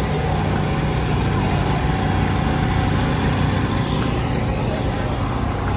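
Motor vehicle engine running steadily at idle, a continuous low rumble.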